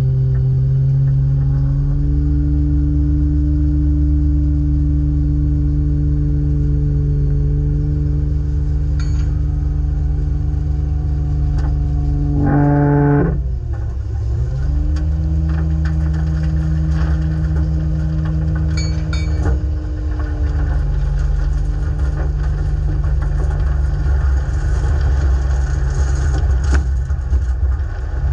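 Dump truck's diesel engine running steadily with a low rumble. About halfway through its pitch briefly rises, then drops sharply and climbs back to a steady note.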